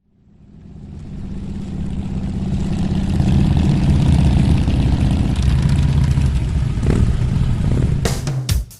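Yamaha WR250R's single-cylinder four-stroke engine running, fading in from silence and growing louder over about three seconds, then holding steady. Drum beats of music come in near the end.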